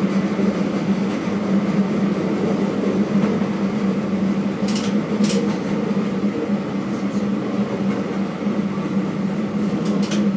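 Diesel railcar running along the line, heard from on board: a steady drone and rumble of wheels on the rails, with a few brief clicks about halfway through and near the end.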